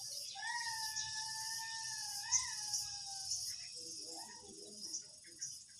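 Crickets chirping steadily in the background. A long drawn-out call, held at a steady pitch for about three seconds with a small upward lift near its end, starts just after the beginning, and a shorter, lower call follows about four seconds in.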